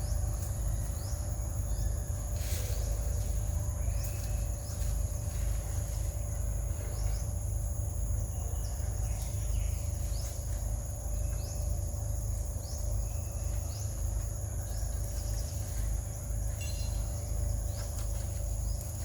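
Insects droning steadily at two high pitches, with short bird chirps scattered through, over a steady low rumble.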